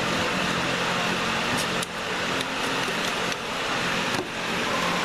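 Steady hum and hiss in the background, with about five short sharp clicks in the middle seconds as the electronic control module's plastic wiring plugs are worked loose and pulled free.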